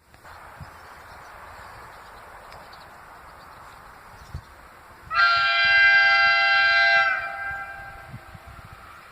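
Train horn sounding one steady blast of about two seconds, starting about five seconds in. It is a chord of several tones held level and then dying away, over steady background noise.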